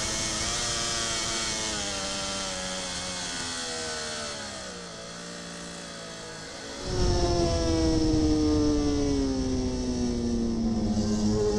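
Onboard sound of a racing superbike's engine: the revs fall steadily as the bike slows and the engine quietens, then about seven seconds in it turns much louder with a deep rumble, its pitch still easing down.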